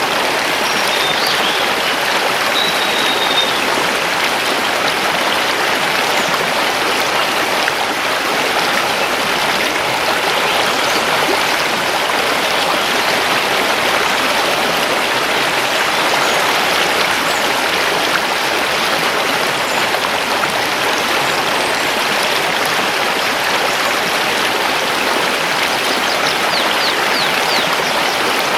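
Mountain river rushing over stones: a steady, even rush of flowing water. A few faint bird chirps come through in the first few seconds and again near the end.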